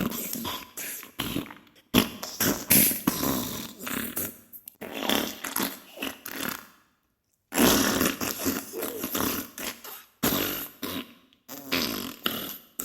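Diarrhea sound effect: sputtering fart bursts in several bouts, with brief pauses between them and a clear gap about seven seconds in.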